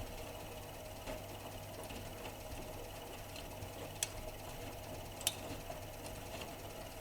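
AEG Öko-Lavamat 85769 front-loading washing machine running a wash programme: a steady low hum, with a few sharp clicks, the loudest about four and five seconds in.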